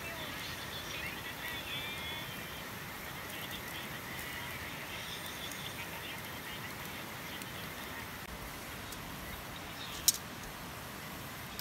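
Frogs calling in quick chirping trills over a steady rush of river water, with one sharp click about ten seconds in.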